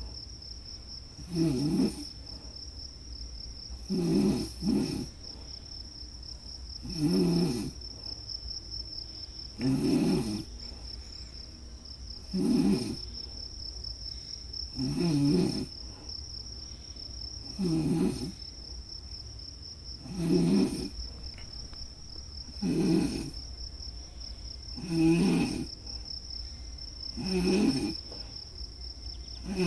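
Snoring, about one snore every two and a half seconds in an even rhythm, over a steady high-pitched trill of crickets.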